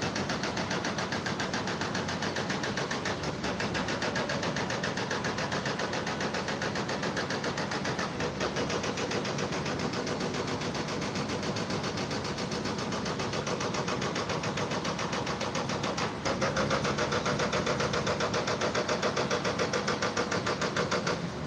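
A machine running with a steady, rapid pulsing drone, engine-like. It gets louder about three-quarters of the way through and drops away at the very end.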